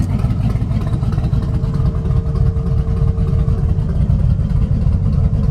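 Twin-turbo 383 small-block V8 of a 1955 Chevrolet 3100 pickup idling with a steady low rumble. A faint steady whine sits over it for about two seconds midway.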